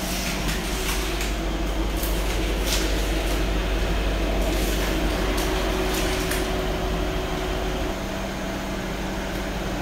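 Mercedes-Benz S550's twin-turbo V8 idling, a steady low hum.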